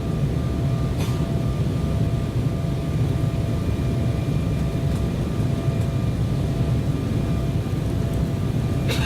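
Steady cabin noise inside an Embraer 190 airliner on approach to landing: a low, even rumble of airflow and its turbofan engines, with a faint steady whine above it.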